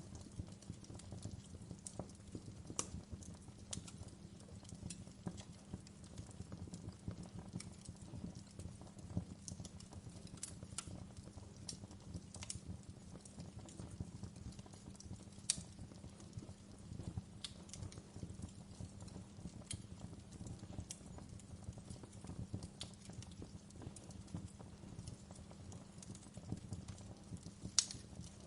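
Wood fire burning with a steady low rumble and irregular crackles, with a couple of louder pops, one about halfway through and one near the end.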